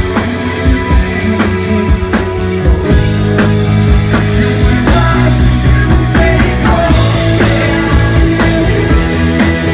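Live rock band playing a full-band passage: electric guitars and bass with steady drum hits.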